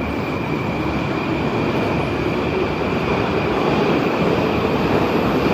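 Moscow metro train running on the rails: a loud rumble growing steadily louder, with a steady high whine above it.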